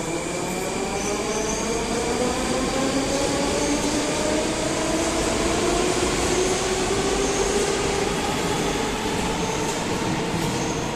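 Moscow Metro Rusich train pulling out of the station, its traction motors whining in several tones that rise steadily in pitch as it accelerates, over the rumble of the wheels on the rails.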